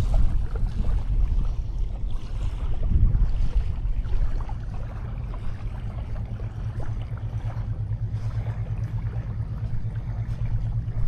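Wind rumbling on the microphone over the wash of sea waves on a beach, a steady low roar with the surf swelling and easing.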